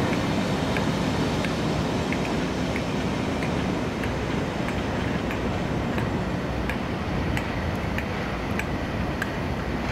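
Train running at the station: a steady low rumble with light ticking about twice a second.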